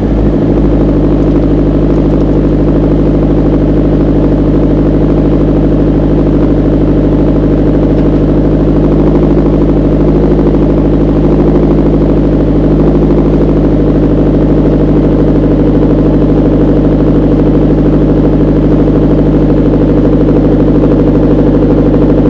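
Nissan Pulsar GTiR's turbocharged SR20DET four-cylinder idling steadily, heard close to the exhaust tailpipe.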